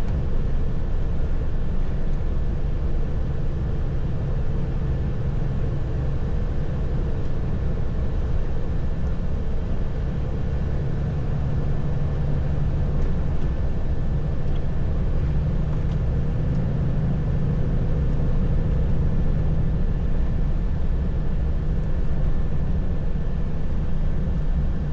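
Heavy truck driving, heard from inside the cab: the diesel engine's steady low drone with road and tyre noise, and no sharp events.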